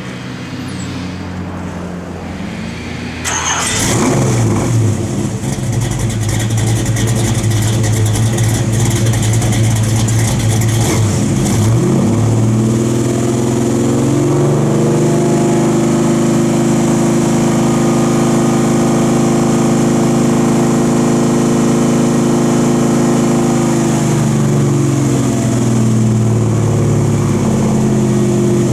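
1969 Camaro Z28's V8 engine heard through its exhaust, running at idle and growing suddenly louder a few seconds in. About twelve seconds in it revs up, holds a steady raised speed for about ten seconds, then drops back toward idle near the end.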